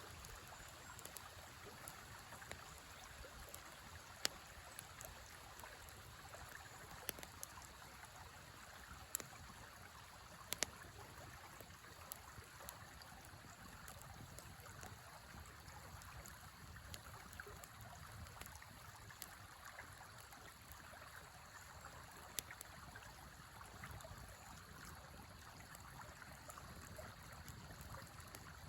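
A river flowing steadily, faint, with scattered sharp pops from a small crackling wood fire, the loudest about four and ten seconds in.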